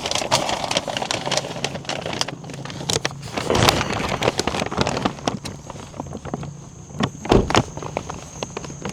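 Handling noise as things are carried in: scattered knocks, clicks and rustling, with a louder thump about three and a half seconds in and two more about seven seconds in.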